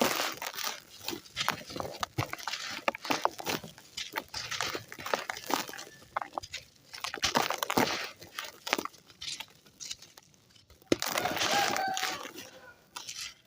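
Dry, gritty red sand clumps being crushed and crumbled by hand: a dense run of irregular crunches and gritty crackles, thickest for a couple of seconds near the end.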